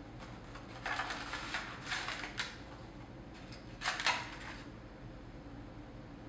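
Handling and opening of a cardboard bulb box: rustling and scraping in two spells, about a second in and again around four seconds in.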